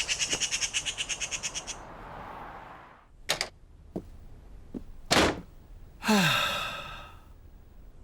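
Cartoon sound effects: a rapid run of high chirps, about ten a second, for nearly two seconds, then a few sharp knocks, the loudest about five seconds in, and a short sound falling in pitch near the end.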